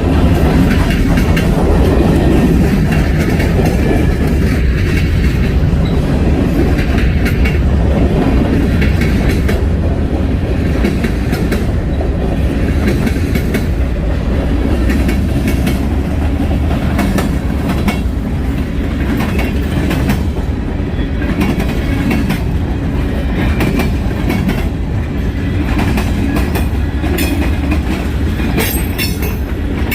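Freight train cars rolling past close by: a steady, loud rumble with wheels clicking over the rail joints.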